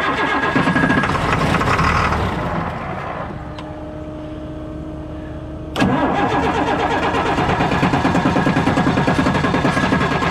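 Log truck's engine being cranked over on the starter with a fast even pulsing, trying to start. It dies away about three seconds in, leaving a quieter steady hum with a single click, then the cranking starts again abruptly about six seconds in.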